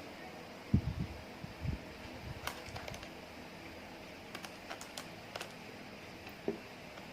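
Slime being squished and handled by hand: a few low, soft squishes about a second in, then scattered small sticky clicks and pops, and one more squish near the end.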